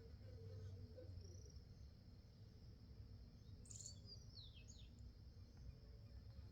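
Faint garden ambience with a steady high insect drone. About four seconds in, a bird gives a short call of a few quick descending chirps.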